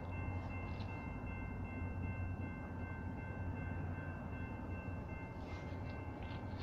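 Norfolk Southern freight train rolling past with a steady low rumble and a faint, steady high ringing tone over it.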